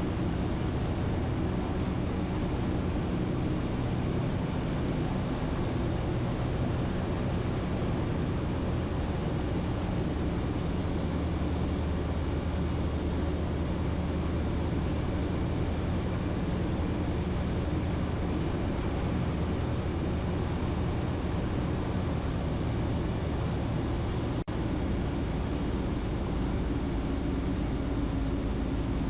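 Ikarus C42 light aircraft's engine and propeller droning steadily on final approach, with a momentary dip in the sound about three-quarters of the way through.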